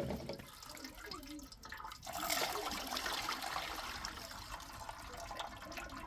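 Water running or pouring, starting suddenly about two seconds in and then going on steadily.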